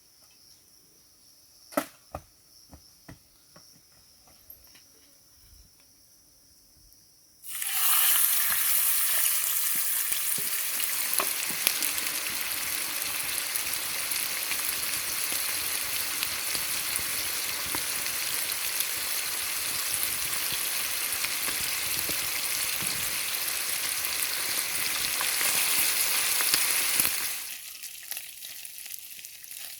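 A few light clicks, then about seven seconds in a loud frying sizzle starts suddenly, as food goes into a hot pan. The sizzle runs steadily and drops away sharply near the end.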